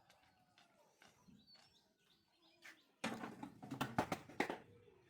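Faint bird chirps, then about three seconds in a quick run of sharp knocks and clicks lasting a second and a half.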